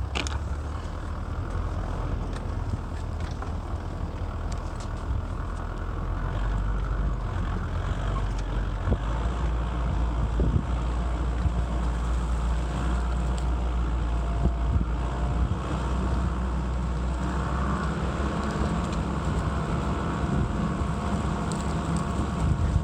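A motor vehicle running with a steady low rumble, with a faint steady engine tone in the second half.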